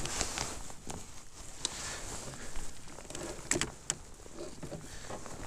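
Handling noise: scattered light clicks and rustles, with two sharper clicks a little past halfway, as fishing gear is handled aboard a kayak.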